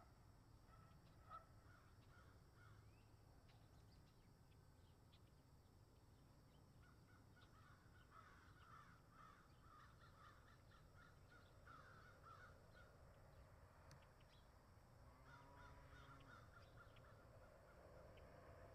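Near silence with faint bird calls: clusters of quick repeated notes about halfway through and again near the end, over a faint low rumble.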